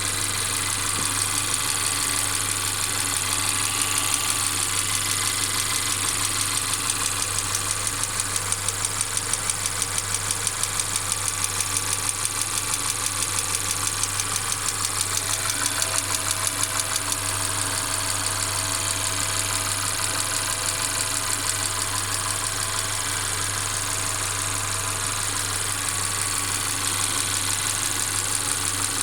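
Mercedes-Benz CLA 250's 2.0-litre turbocharged four-cylinder petrol engine running with a constant rattle. Over it comes an intermittent, fast, regular clacking that sets in a few seconds in and dies away after about twenty seconds.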